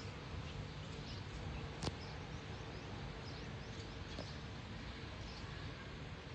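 Faint, scattered bird chirps over a steady outdoor background hiss, with one sharp click about two seconds in.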